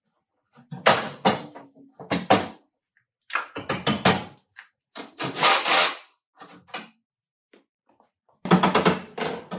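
Bursts of clatter and knocking in several clusters, with silent gaps between them.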